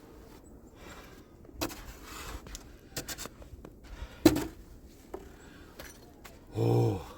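Scrapes and knocks of a snow shovel working through heavy snow, with a loud knock about four seconds in. Near the end comes a short grunt that falls in pitch.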